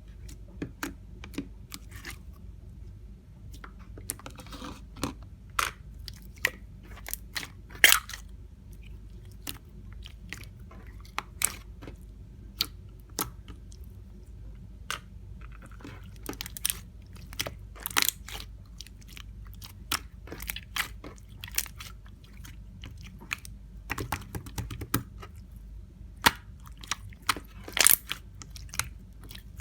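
Slime being squeezed and pressed by hand, giving irregular sharp pops and clicks, a few of them much louder, over a low steady hum.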